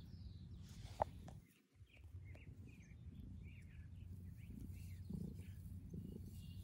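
Faint short bird chirps repeating over a low steady background hum, with a single sharp click about a second in.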